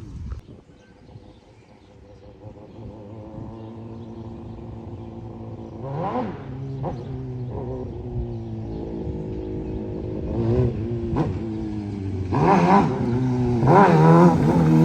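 2006 Suzuki GSX-R 750's inline-four engine running and growing steadily louder as the bike comes closer, with several short throttle blips. The loudest revs come near the end.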